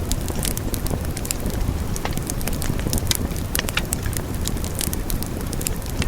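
Wood fire burning, with a steady low rumble of flame and frequent sharp, irregular crackles and pops.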